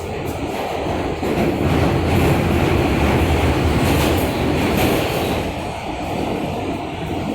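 R160A subway car of the L train running between stations, heard from inside the car: a loud, steady rumble of wheels on rail and running gear. It swells about two seconds in and eases off after about five.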